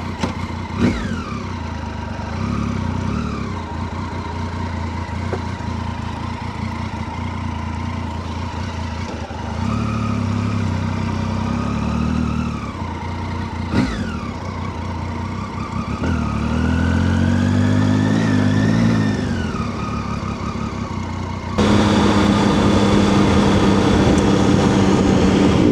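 Triumph Tiger 800's three-cylinder engine pulling at low speed, revving up and easing off several times. About twenty-two seconds in the sound changes abruptly to a louder, steady engine note.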